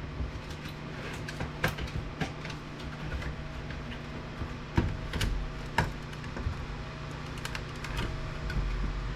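Irregular light clicks and knocks of tools, screws and metal parts being handled while an APC battery backup unit is taken apart, over a steady low hum.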